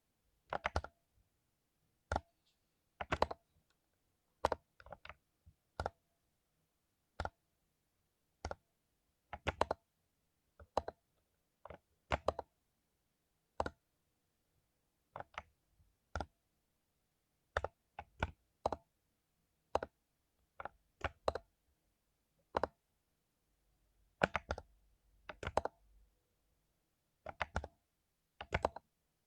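Mechanical keyboard with lubed Cherry MX Silver linear switches, single keys pressed and released at an unhurried, irregular pace: sharp keystroke clicks, sometimes two or three close together, with gaps of up to about two seconds.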